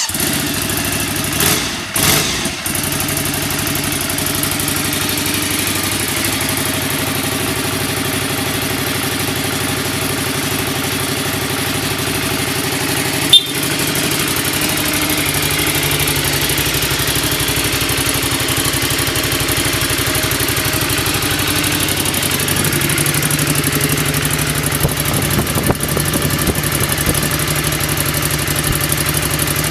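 Ducati Scrambler's air-cooled L-twin engine idling steadily through its exhaust, a healthy idle after a one-press electric start. It revs briefly twice in the first few seconds, and there is a single sharp click about 13 seconds in.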